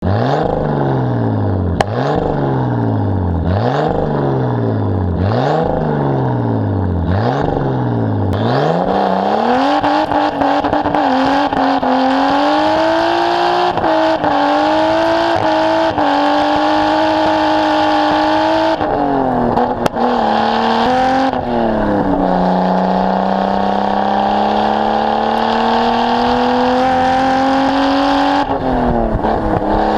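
Nissan R32 Skyline's RB20DET turbocharged straight-six, revved in about five quick blips that each fall back, then accelerating hard through the gears, its pitch climbing steadily and dropping sharply at each of several upshifts.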